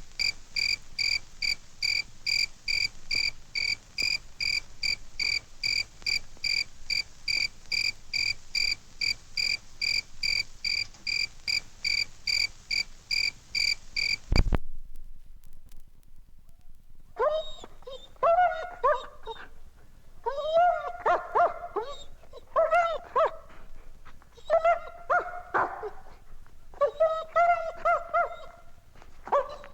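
A single cricket chirping evenly, about three chirps a second, which stops about halfway through with a thump. After a short gap a big dog whines in a string of high, wavering whimpers.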